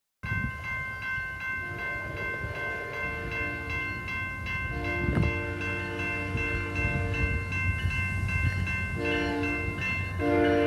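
Locomotive horn sounding the grade-crossing signal, long, long, short, then a louder long blast near the end, as a train approaches, over a grade-crossing bell ringing steadily and a low rumble of the train.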